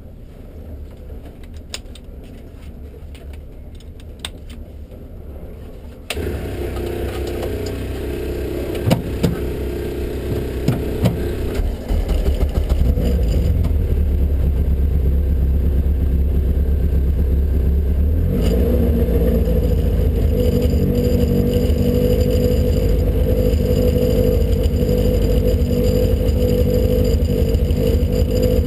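Vauxhall Nova's naturally aspirated race engine with throttle bodies running at idle while the car sits stationary, heard from inside the car. It gets louder about six seconds in and again about twelve seconds in, then holds a steady idle.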